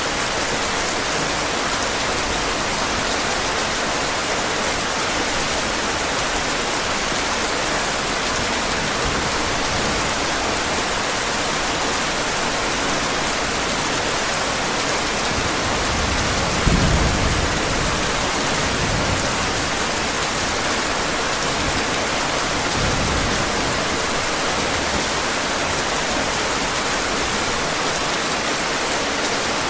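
Steady heavy rain, with a low thunder rumble rolling in about halfway through and a fainter one a few seconds later.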